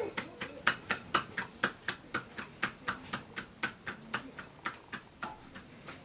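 A fast, even series of sharp knocks, about four a second, stopping about five seconds in.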